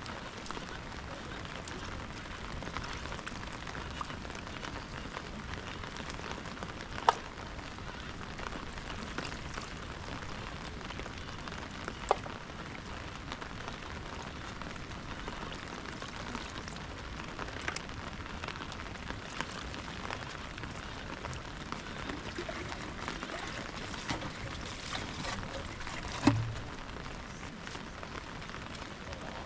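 Steady rain falling, with scattered sharp drip ticks. Three louder knocks stand out: one about a quarter of the way in, one a little before the middle, and one near the end.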